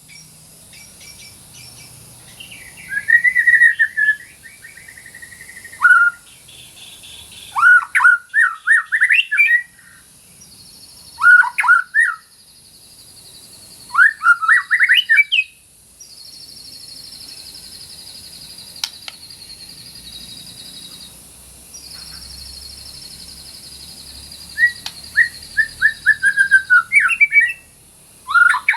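White-rumped shama singing: loud, varied whistled phrases in short bursts, with pauses between. Through much of the middle a high, buzzy trill holds steady for several seconds at a time.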